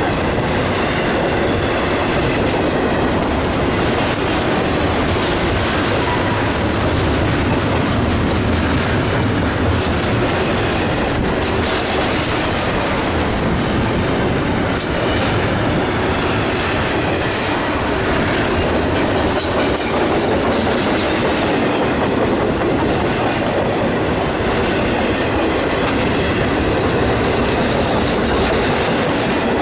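Freight cars of an autorack and intermodal train rolling past at a steady level, their wheels clicking over the rail joints.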